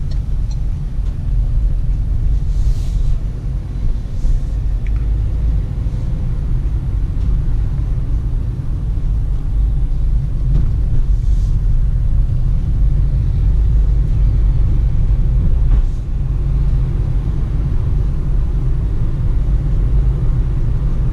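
Peugeot Partner van heard from inside its cabin while driving: a steady low rumble of engine and road noise, with a few faint brief hisses.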